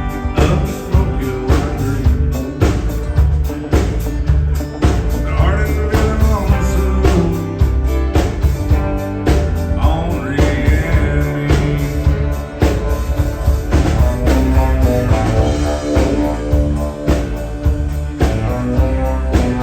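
Rock band playing an instrumental passage: a steady drum beat and bass under a lead guitar line with bending notes.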